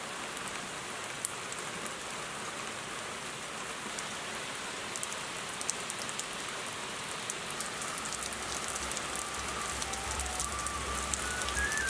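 Heavy rain falling on a lake's surface: a steady hiss with a dense patter of individual drops. Music comes in softly near the end.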